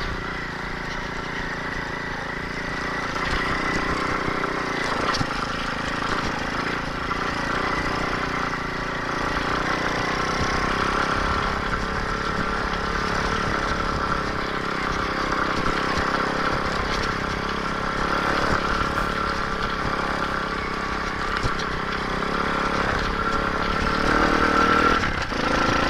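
A 125cc single-cylinder four-stroke pit bike engine running under way at fairly steady riding revs, picking up slightly a few seconds in.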